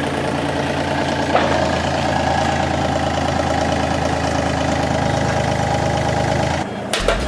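Engine of a mini excavator running steadily while its hydraulics drive a helical pier screw into the soil. A higher whine joins about a second and a half in, and the sound cuts off shortly before the end.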